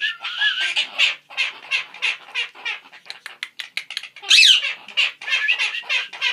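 Quaker parrots (monk parakeets) chattering: a fast, continuous run of short, harsh chirps, with a louder squawk a little over four seconds in.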